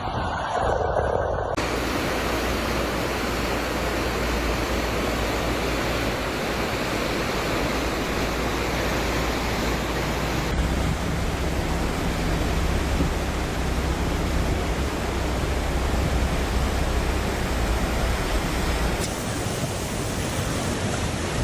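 Steady rushing noise of flood-storm water, changing abruptly in tone a few seconds in, about halfway and near the end.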